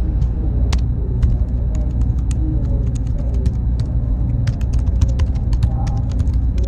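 Computer-room ambience: a steady low hum of machines with a faint high whine, and irregular keyboard clicks scattered over it.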